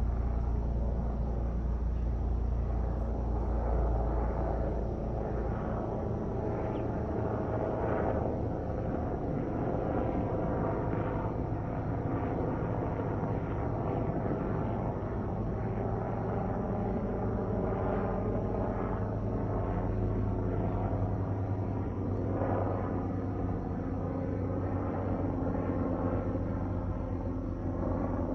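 Aircraft flying over: a steady engine drone with a deep rumble that is strongest in the first few seconds and then eases, and the drone holds on through the rest.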